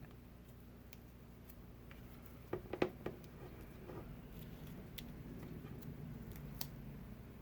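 Small clicks and taps of hand tools handling parts and adhesive during a tablet repair, with a quick cluster of sharp clicks about two and a half seconds in and a few faint ticks after.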